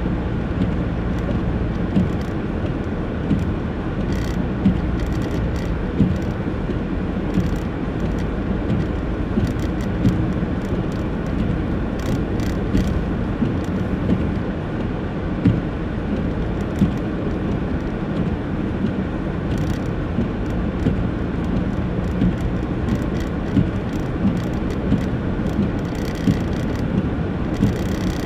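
Steady low rumble of a car heard from inside the cabin, with a faint hum and small irregular clicks or knocks about once a second.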